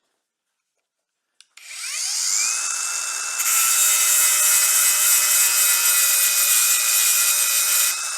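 Angle grinder starting about a second and a half in, its motor whining up to speed, then grinding old weld off cast iron from about three seconds in: a steady high whine under loud, rough grinding.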